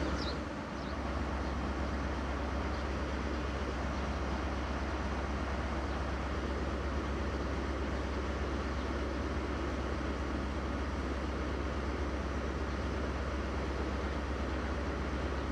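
Steady low rumble of a train engine running, unchanging throughout.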